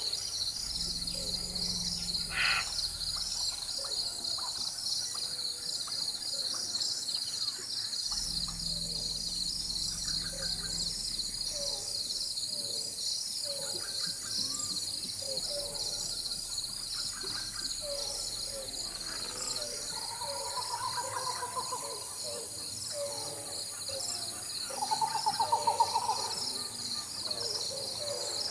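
Rainforest ambience: a steady high-pitched insect chorus with many scattered bird calls, two louder trilling calls near the end. Low rumbles of distant thunder come just after the start and again around eight seconds in.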